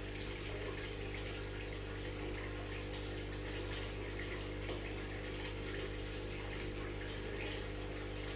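Aquarium filter running: water splashing and trickling steadily over a constant low pump hum.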